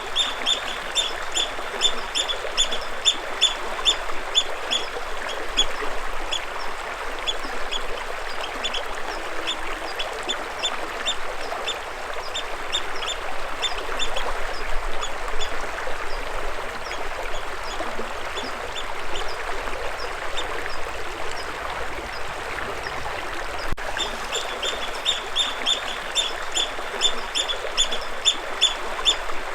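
Steadily running stream water with a bird calling over it in long runs of short, high chirps, about three or four a second, strongest at the start and again near the end.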